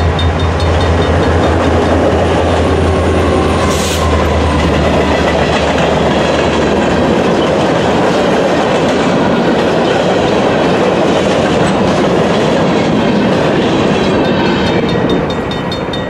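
Freight train powered by two EMD diesel locomotives, a GP38-2W and an SD70M-2, passing at track speed. A steady engine drone fades about seven seconds in, leaving the rumble and clickety-clack of boxcars and empty centerbeam lumber cars rolling by.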